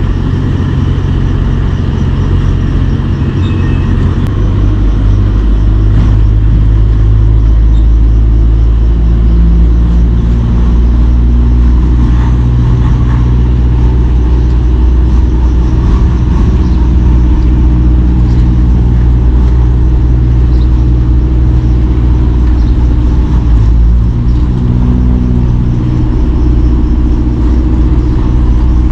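Semi-truck's diesel engine running while the truck is under way, a steady low drone whose pitch shifts several times.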